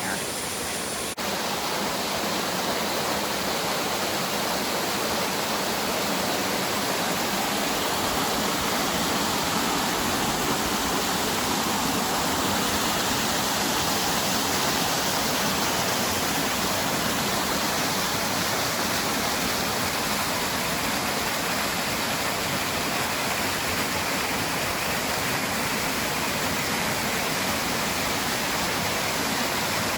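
Steady rushing roar of a small waterfall and its cascades.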